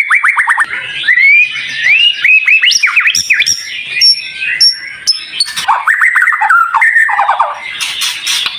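White-rumped shama (murai batu) singing a loud, varied song of rapid downward-sweeping trills, rising whistled notes and short high piping notes. Near the end comes a brief harsh, rasping phrase before the trills resume.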